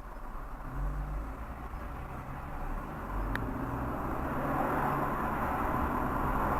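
Car on the move: engine and road noise, getting louder over the last couple of seconds, with one short click about three seconds in.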